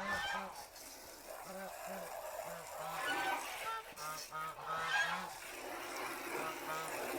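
Domestic geese honking repeatedly, many short calls coming one after another and overlapping, busiest in the middle.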